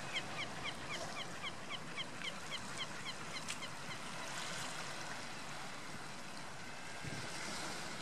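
A bird calling in a quick run of short, high, piping notes, about four a second, which stops about three and a half seconds in, over a steady hiss of wind and sea.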